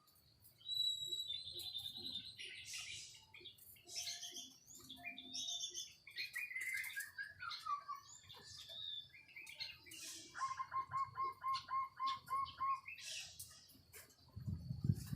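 White-rumped shama singing a varied song of clear whistles, chattering phrases and falling slides, with a run of about nine quick repeated notes in the middle. A brief low thump near the end.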